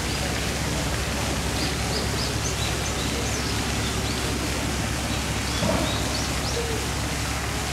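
Steady outdoor rushing noise with many short, high bird chirps scattered through it.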